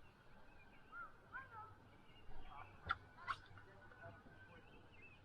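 Faint bird calls: many short chirps from small birds, with two sharp clicks about three seconds in.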